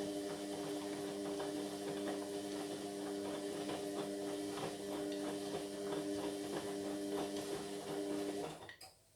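Indesit MyTime washing machine running mid-cycle: a steady motor hum of several tones with a faint, fast ticking, cutting off abruptly about eight and a half seconds in.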